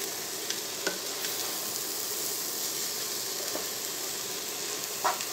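Chopped vegetables and scrambled egg sautéing over high heat in a pot: a steady sizzling hiss as a spatula stirs through them, with a few light scrapes and taps of the spatula against the pot.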